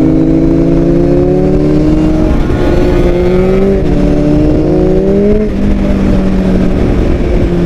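A small motorcycle engine accelerating hard: its note climbs, drops about four seconds in as it shifts up, climbs again and drops once more. Steady wind rumble runs underneath.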